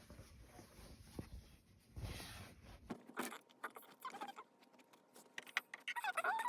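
Handling sounds from paper-piecing quilt work: fabric and paper being moved, with many small clicks and a few short squeaks.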